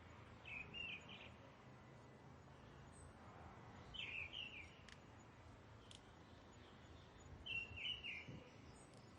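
A bird calling three times, each a short phrase of a few quick warbling notes, a few seconds apart, over a faint steady hiss.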